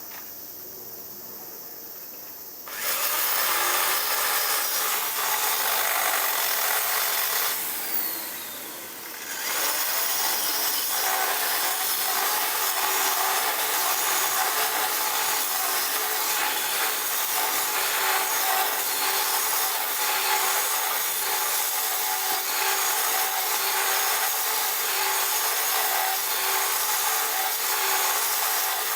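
A handheld power tool running and working at something, a rasping noise over a steady motor whine. It starts a few seconds in, stops briefly about eight seconds in, then runs again.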